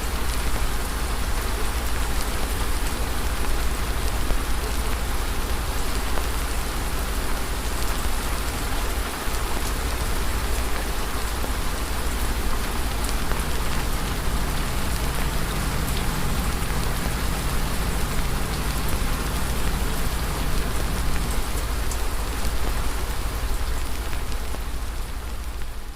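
Steady rain ambience: a dense, even hiss of falling rain with faint scattered ticks, beginning to fade out near the end.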